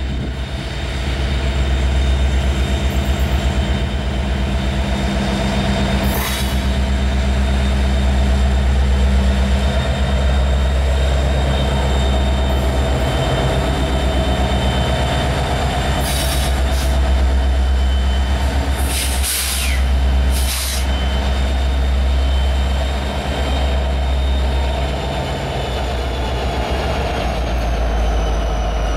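Two Norfolk Southern EMD SD70ACe diesel-electric locomotives rumbling past at close range at the head of a loaded crude oil train, followed by the cars rolling by, with a steady high whine. A few short hissing bursts come about two-thirds of the way through.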